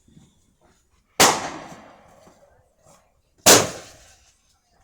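Two firework explosions, about two and a quarter seconds apart, each a sharp bang that trails off over about a second.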